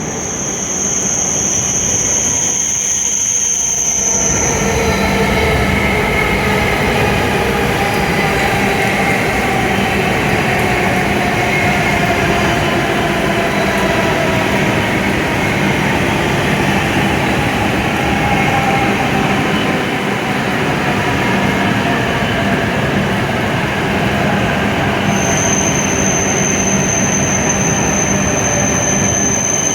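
W7-series Shinkansen train pulling into the platform and slowing, its running noise and motor whine falling slowly in pitch as it brakes. A thin, steady high-pitched tone sounds for the first few seconds and again near the end.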